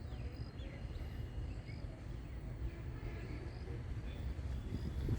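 Town street ambience: a steady low rumble with faint, short high chirps scattered through it.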